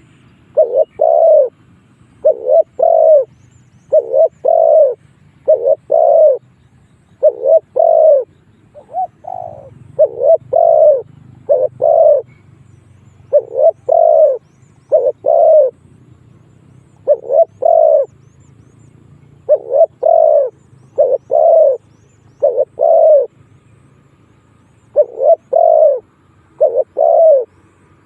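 Spotted dove cooing: a decoy bird calling over and over in short phrases of two or three loud coos, with brief pauses between phrases.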